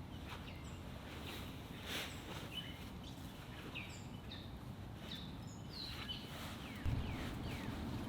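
Birds calling with many short, quick downward-sliding chirps over a steady low outdoor rumble. A low thump about seven seconds in, after which the rumble is slightly louder.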